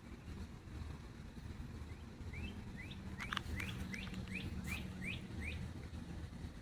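A bird calling a quick series of about nine short rising chirps, roughly three a second, starting a couple of seconds in and stopping about a second before the end.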